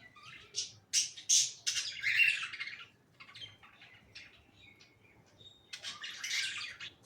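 Budgerigars chattering and squawking in scratchy, high-pitched bursts. The calls are busiest in the first few seconds, thin out to soft ticks, and pick up again near the end. A breeding pair is courting just before mating.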